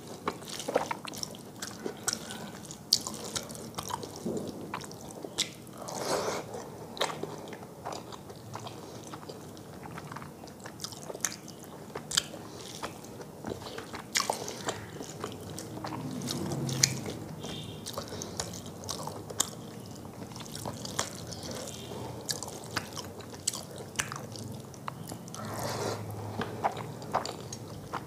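Close-miked eating sounds: chewing a mouthful of rice and fish curry, with many sharp, wet mouth clicks and smacks scattered irregularly throughout.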